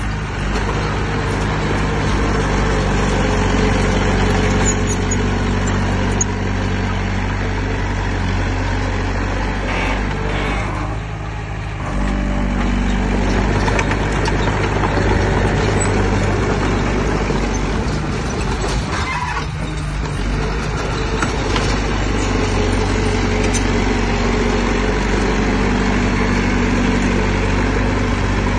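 Heavy diesel engine of earthmoving machinery running steadily under work, its note dipping and shifting briefly about eleven seconds in and again near twenty seconds.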